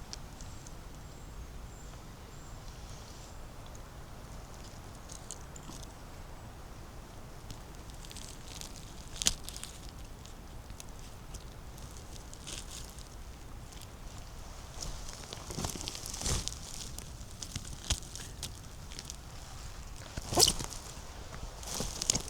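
Footsteps on forest-floor litter, with scattered rustling and crackling and a few sharp twig snaps, busier in the second half and loudest near the end.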